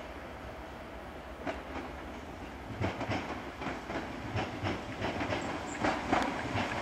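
Merseyrail electric multiple unit running through pointwork, its wheels clicking and clattering over the rail joints. The clatter grows louder from about three seconds in as the train draws near.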